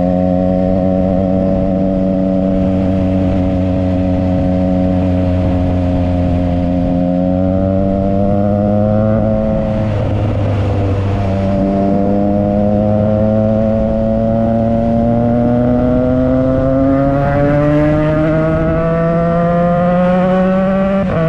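Triumph Trident 660 inline-three engine through a Yoshimura exhaust under way, holding steady revs and then gently climbing. About ten seconds in the note breaks briefly and comes back lower, as on a gear change, then rises steadily in pitch as the bike accelerates.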